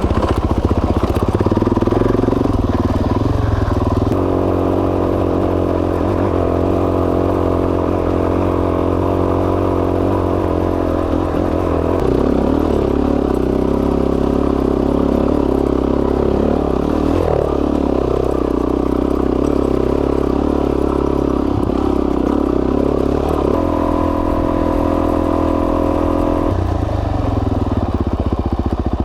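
Suzuki DR-Z400S's single-cylinder four-stroke engine running under way. It holds a steady note for stretches, and its pitch changes a few times.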